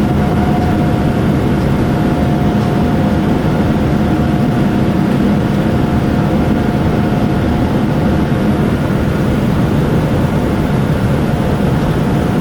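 Steady jet engine and airflow noise inside a Boeing 787-9 cabin: a loud, even rumble with a thin steady whine above it.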